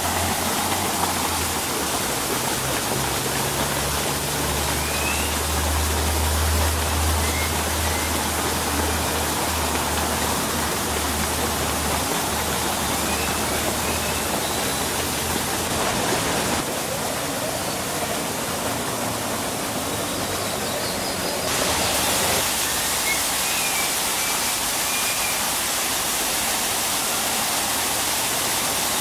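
Steady rushing noise, with faint short bird chirps now and then. The noise changes abruptly twice, in the second half.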